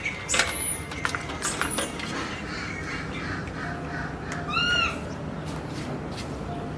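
High-pitched animal calls: a few short squeaks in the first two seconds, then a quick run of about four arching, chirping calls about four and a half seconds in.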